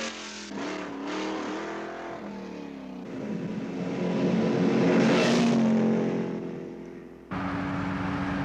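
Car engine revving hard as the car accelerates away, its pitch rising and falling through the revs. A car sweeps past loudly about five seconds in. Near the end the sound cuts abruptly to a steady engine drone.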